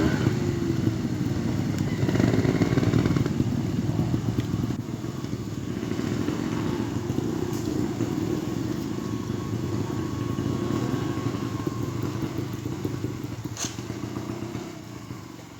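Trials motorcycle engine blipping the throttle in short revs over the first few seconds, then running at low throttle, with a single sharp click near the end.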